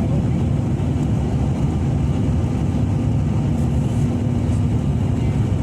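Airliner cabin noise during the landing: a steady low rumble of engines and rushing air with a constant drone.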